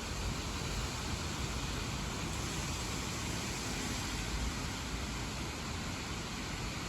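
Steady rush of storm wind and moderate rain, with gusts buffeting the microphone in the low end.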